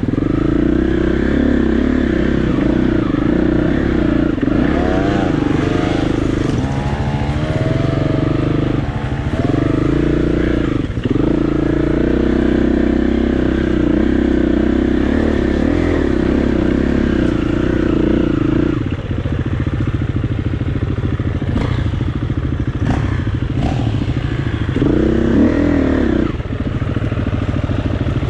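KTM 350 EXC-F single-cylinder four-stroke enduro motorcycle engine running under way. It holds a steady note for long stretches, and its pitch rises and falls a few times as the throttle is blipped and released.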